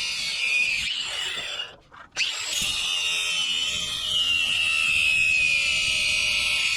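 Power tool motor running with a high whine, stopping briefly about two seconds in, then starting again with its pitch slowly falling.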